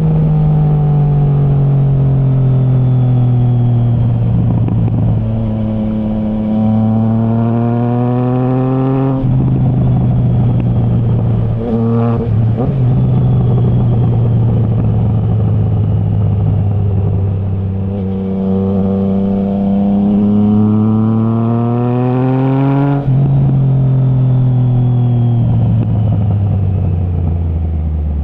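Triumph Trident 660's inline three-cylinder engine through a de-baffled Zard stainless full exhaust, pulling hard under acceleration. The pitch rises steadily over several seconds, then drops abruptly at each gear change, twice. The engine note falls away near the end as the bike slows.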